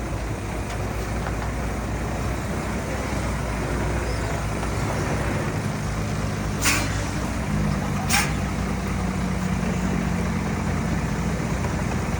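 Heavy diesel earthmoving machinery running steadily. Two short air hisses, about a second and a half apart, come near the middle, like an air brake or air valve releasing.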